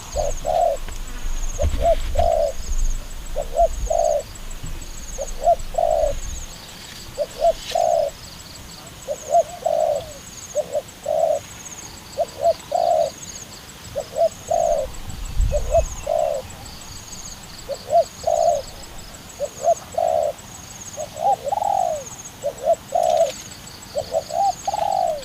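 Dove cooing over and over, short coos in twos and threes about every second. Faint high chirping repeats behind it.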